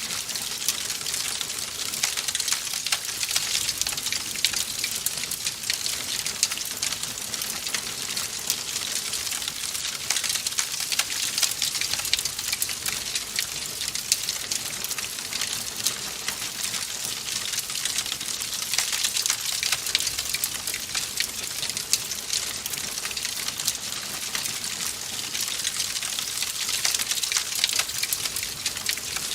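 Wood fire crackling in a fireplace: a dense, steady stream of small crackles and pops over a soft hiss.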